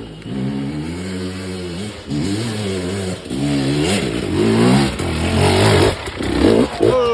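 Off-road motorcycle engine revving in about five bursts of a second or so each, the pitch rising and falling with the throttle as the bike climbs a slope, getting louder toward the end as it approaches.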